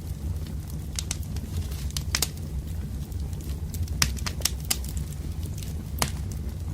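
Wood fire crackling: irregular sharp snaps and pops of burning logs over a steady low rumble, with the loudest pops about four and six seconds in.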